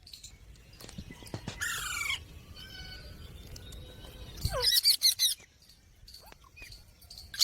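Pet ring-necked parrot calling: a short call about a second and a half in, then a loud burst of harsh, shrill squawks about halfway through, and more squawks at the end.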